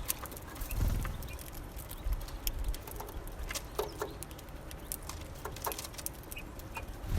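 Small birds at a seed feeder: scattered light taps and clicks of pecking and landing, with a few brief calls.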